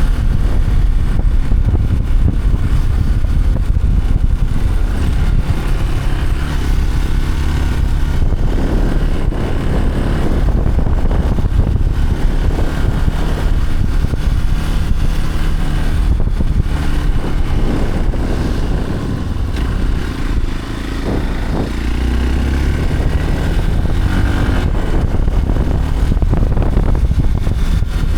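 A motor vehicle's engine running steadily with a low rumble, easing off briefly about twenty seconds in.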